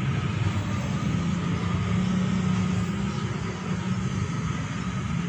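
Passenger train rolling away along the track, a steady low rumble of wheels on rails that eases slightly as the coaches recede.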